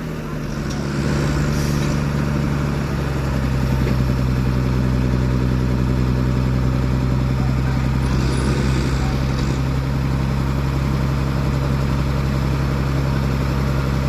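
Heavy truck diesel engine running steadily at raised revs, getting a little louder about a second in: a tow truck's engine under load as it drags the crashed truck up little by little.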